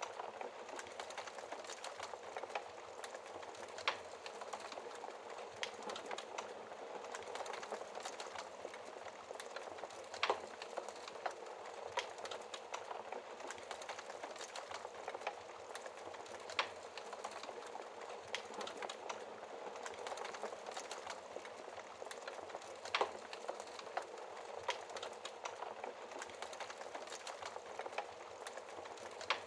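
Wood fire crackling in a fireplace: a steady hiss of burning with frequent sharp pops and snaps, a few of them louder.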